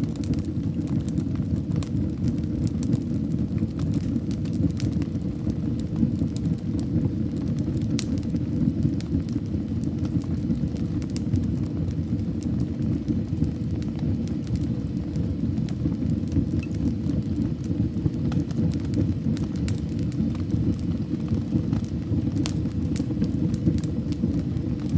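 Fire burning in a fireplace: a steady low rumble of flames with frequent small crackles and pops at irregular moments.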